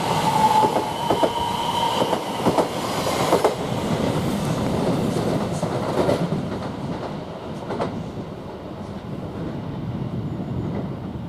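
Greater Anglia Class 720 electric multiple unit pulling away, its wheels clicking over rail joints and points with a high squeal in the first couple of seconds. The noise then dies away as the train draws off.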